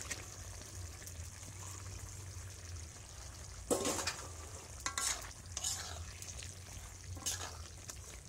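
Marinated chicken sizzling in a kadai of hot fried masala, with a steady frying hiss. From about four seconds in, a metal spatula scrapes and knocks against the kadai several times as the chicken is stirred in.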